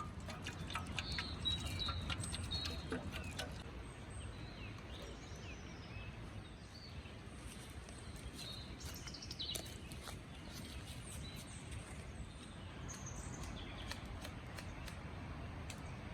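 Birds chirping in short calls over a steady low rumble of outdoor background noise, with scattered faint clicks.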